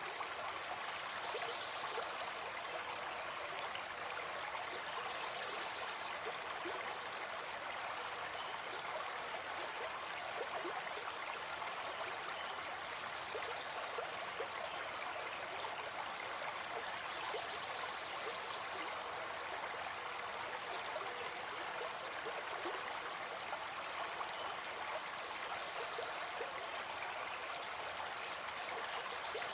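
Gentle forest stream flowing: a steady, even rush of water that does not change.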